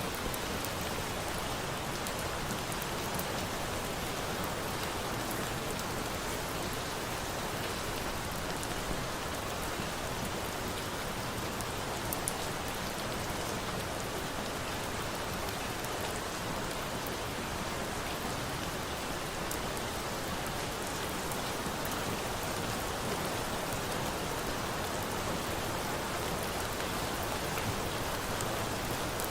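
Steady rain falling, with scattered small crackles and pops of a wood campfire, one a little sharper about twelve seconds in.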